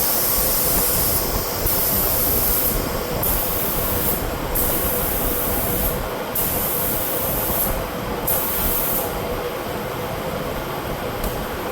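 Compressed air hissing at a split-rim truck tire as it is aired up and bled back down, the high hiss cutting in and out every second or so. Under it runs a steady rush of noise from a shop fan.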